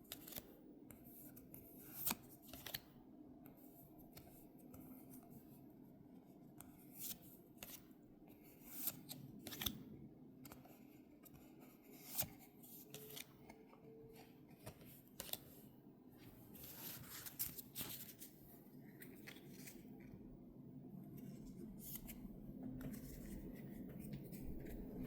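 Faint, irregular clicks and short rustles of cardboard packaging and trading cards being handled by hand.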